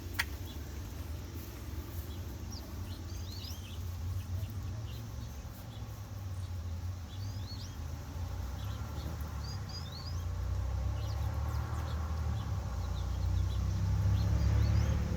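Small birds chirping in short, quick notes scattered throughout, over a steady low rumble that grows louder in the second half.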